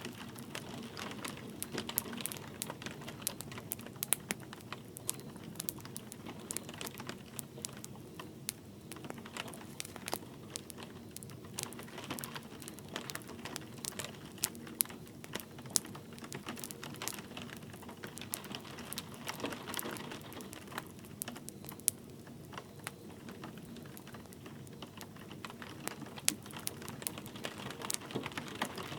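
Wood fire crackling with frequent, irregular sharp pops over a steady hiss of light rain.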